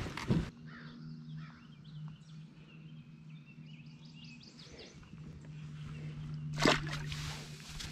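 Birds chirping faintly over a steady low hum. It opens with a brief clatter of handling noise, and a short rush of noise comes about six and a half seconds in.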